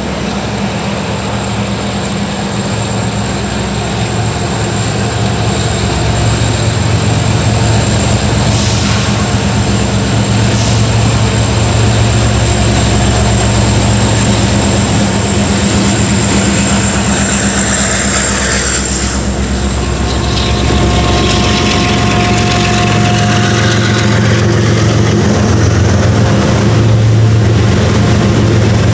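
Diesel freight locomotives working hard to pull a loaded sand train up a grade: a steady, loud low engine drone that grows louder as they come closer.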